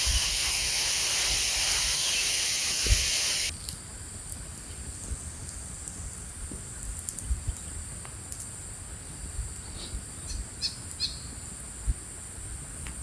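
Forest ambience. A loud steady hiss cuts off abruptly about three and a half seconds in, leaving a quieter background with a steady high-pitched drone and a few short bird chirps near the end, along with low wind rumbles on the microphone.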